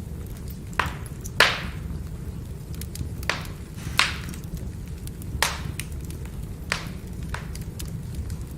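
Burning firewood crackling: about seven sharp pops at uneven intervals, the loudest about one and a half seconds in, with fainter small ticks between, over a steady low rumble of the fire.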